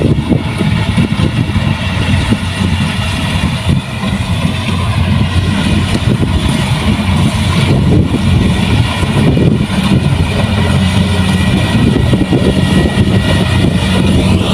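Kubota rice combine harvester's diesel engine running steadily, with a constant low hum.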